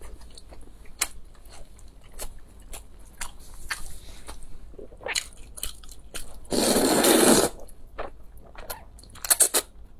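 Close-miked eating sounds: chewing with many small clicks and crunches. One loud, crunchy bite lasts about a second around two-thirds of the way through, and a few sharp crunches come near the end.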